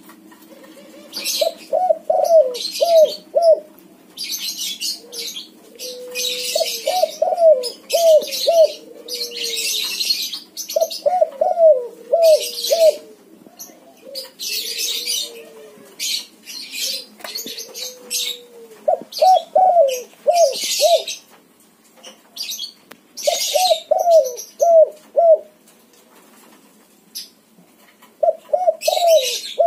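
Spotted dove (tekukur), a white 'backspot' bird, cooing steadily and often, in the manner kept to set other doves cooing. It gives repeated phrases of four or five quick notes, with slower falling coos between them in the middle stretch. Short, hissy, high-pitched chirping bursts come often throughout.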